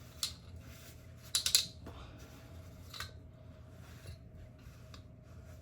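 A few sharp clicks and a short clattering snap about one and a half seconds in, from handling the parts of a track light fixture during its teardown.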